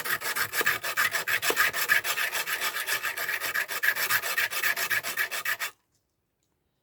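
Victorinox Swiss Army knife's file being ground on a coarse diamond sharpening stone, rasping in quick back-and-forth strokes, several a second, to cut an edge into it; the stone takes metal off only very slowly. The strokes stop suddenly near the end.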